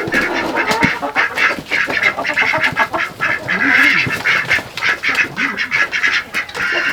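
A flock of poultry calling, many short overlapping calls.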